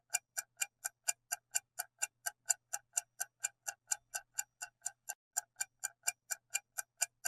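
Clock-like ticking sound effect, evenly spaced at about four ticks a second, marking the countdown while the answer is awaited.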